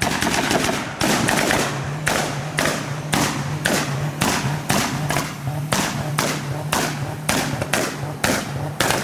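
Modified Volkswagen Golf's exhaust banging loudly and repeatedly, about two sharp bangs a second in an even rhythm, over the engine's steady running note.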